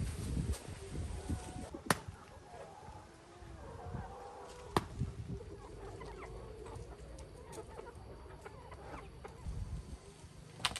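Chickens clucking, with a few sharp clicks about 2 and 5 seconds in and near the end.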